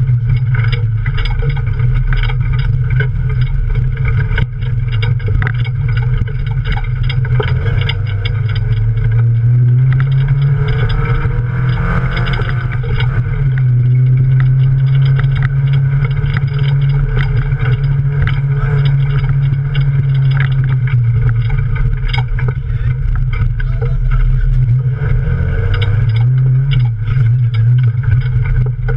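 Toyota Yaris off-road race car's engine, heard from inside the roll-caged cabin, running with a steady drone whose pitch rises and falls a few times, with frequent short knocks and rattles.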